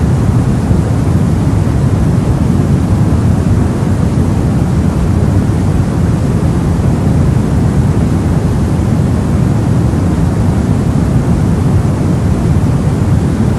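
Steady white noise of the sleep-aid kind, a deep, even hiss weighted toward the low end, with no change or rhythm.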